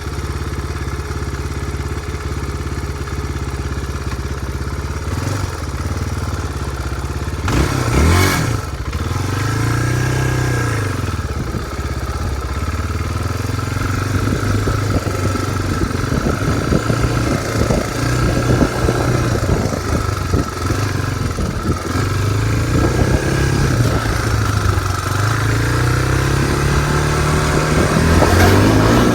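Suzuki DR350 dirt bike's single-cylinder four-stroke engine running, steady for the first few seconds, with a sudden loud burst about eight seconds in. It then revs up and down again and again as the bike is ridden.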